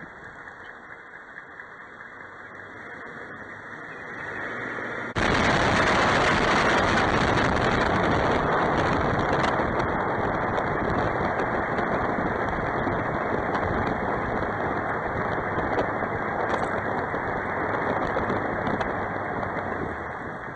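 Toyota truck driving, with steady road and engine noise that jumps suddenly louder about five seconds in.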